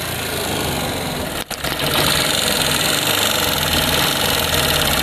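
Suzuki Gixxer SF FI's single-cylinder engine running, with a steady mechanical noise that the mechanic calls very bad. It breaks off briefly about a second and a half in, then comes back louder. He puts the noise down to overly wide tappet clearance that was never adjusted, which has also caused a timing chain problem.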